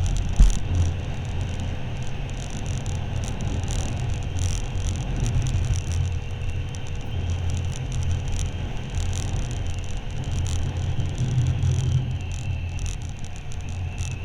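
Motorcycle under way: a steady low engine and road rumble, with a single loud thump about half a second in.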